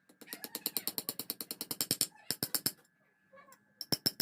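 A fast run of sharp clicks, about a dozen a second for roughly two seconds, then four more and, near the end, three loud knocks.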